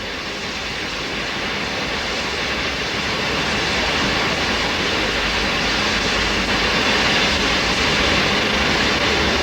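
Steam locomotive noise: a steady rushing hiss that grows louder over the first few seconds, then holds.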